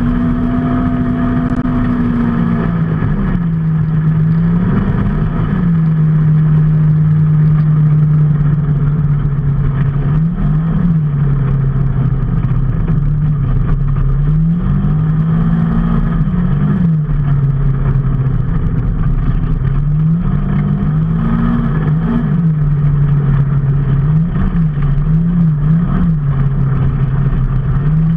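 A vehicle engine running steadily at cruising speed. Its note rises and falls several times as the throttle is opened and eased off, over a constant rushing noise.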